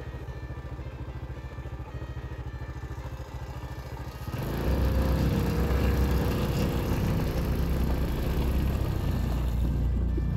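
Motorcycle engine idling with an even beat. About four seconds in it gets suddenly louder as the bike moves off and rides on under throttle.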